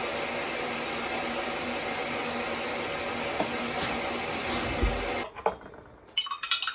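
A steady rushing noise, like a running kitchen appliance, cuts off about five seconds in. Near the end come quick clinks of glass and cutlery.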